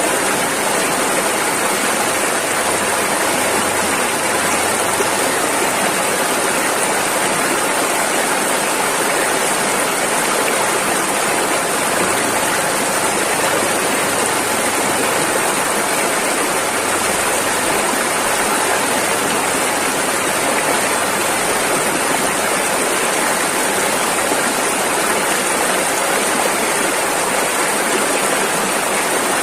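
Rushing river water, a steady full rush of turbulent flow with a bright hiss in the high end.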